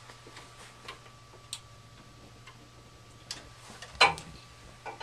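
Scattered light clicks and taps from hands and tools working on a gas furnace's pilot assembly, with one louder knock about four seconds in, over a steady low hum.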